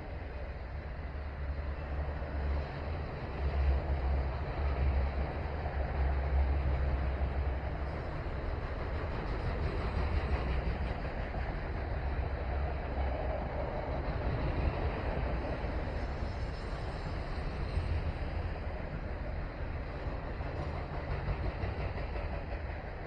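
Freight train of intermodal and autorack cars rolling past, a steady low rumble of steel wheels on the rails.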